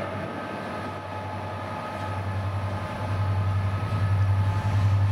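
Train running through the station, a steady low hum that grows louder about three seconds in as it comes closer.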